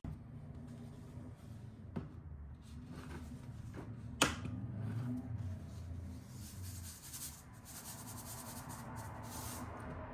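Kitchen handling noises over a steady low hum: a sharp knock about two seconds in and a louder one about four seconds in, then rustling and scraping.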